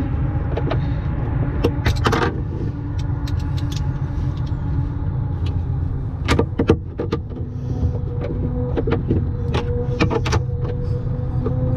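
Scattered sharp metallic clicks and clinks of hand tools working on ATV hardware, loudest in a cluster about six and a half seconds in, over a steady low rumbling hum with a faint wavering whine.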